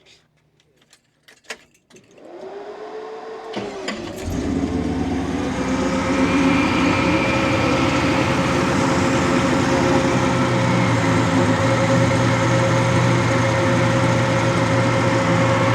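A few clicks, then the truck's rebuilt LS3 V8 is cranked and catches about four seconds in. It settles into a steady idle through its dual exhaust.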